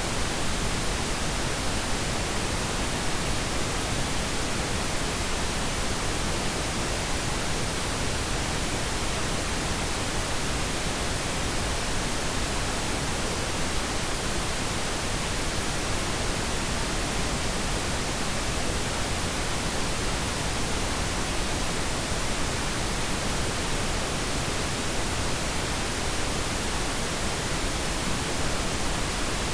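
Steady pink noise: an even, unchanging hiss spread across the whole range of pitch, with no tones, breaks or changes.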